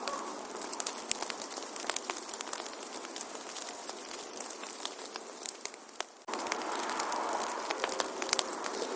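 Fire in a fireplace crackling, with a steady hiss and many sharp pops. Partway through, the sound fades slightly, then cuts back in abruptly at full level.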